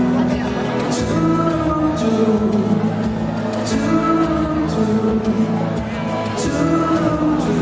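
Live band playing an instrumental passage of a slow pop ballad: held notes that shift every second or so over regular light percussion hits.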